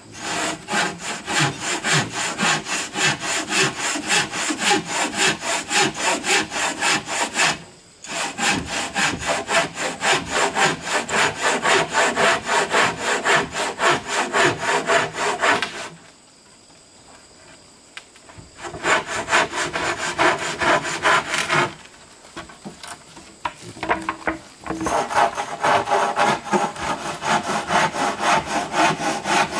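Hand saw cutting through wood in quick, even back-and-forth strokes. It stops briefly about a quarter of the way in, pauses for a couple of seconds past the midpoint, then goes lighter for a few seconds before resuming at full pace.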